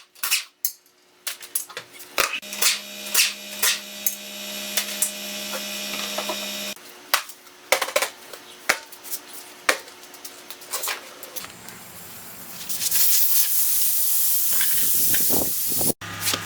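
Tyre-changing work in a garage: repeated sharp clicks and knocks of tools and metal parts, with two long spells of hissing compressed air, the first with a steady hum under it.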